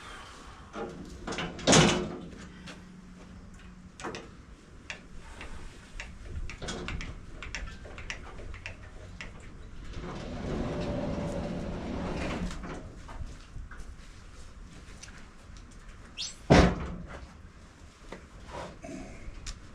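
Two loud bangs about fifteen seconds apart, the first followed by a short ringing hum, with quieter clattering and knocking between them.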